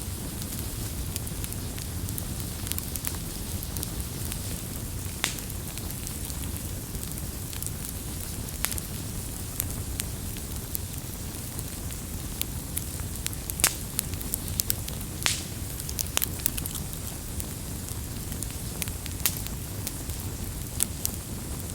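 Wood campfire burning, with a steady low rush under frequent small crackles and scattered louder pops of the burning wood.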